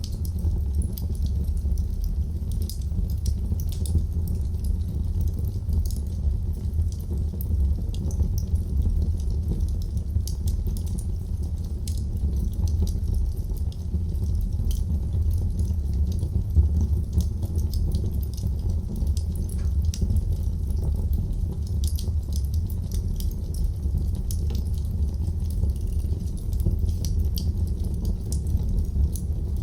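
Wood fire in a fireplace crackling: frequent small snaps and pops scattered over a steady low rumble.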